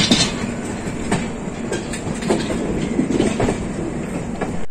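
Rajdhani Express passenger coaches running on the track, heard from on board: a steady rumble of the moving train with a regular clickety-clack as the wheels cross rail joints.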